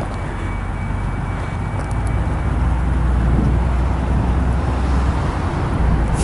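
Low, steady rumble of road riding with wind on the microphone, growing louder about halfway through.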